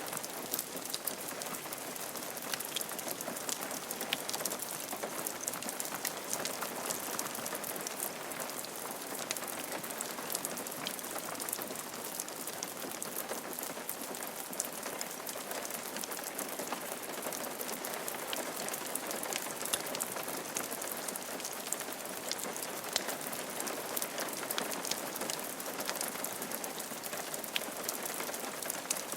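Steady rain falling on a roof: an even hiss thick with many small, sharp drop ticks.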